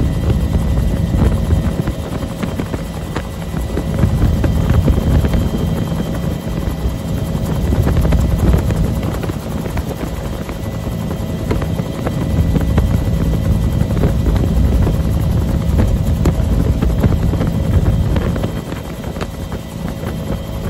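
Bell UH-1 Huey helicopter running in flight: a steady turbine whine over dense, rapidly repeating low rotor beats. The overall loudness swells and fades every few seconds.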